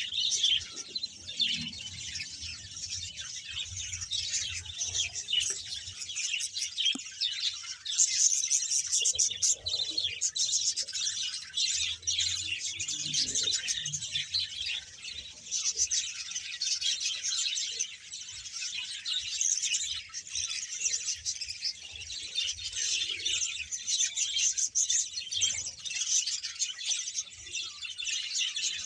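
A large colony of budgerigars, about a hundred pairs, chirping and chattering all at once in a dense, unbroken twitter.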